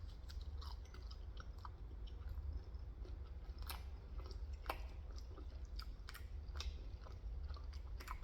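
A person chewing leftover pizza close to the microphone: quiet mouth sounds with many small, scattered clicks.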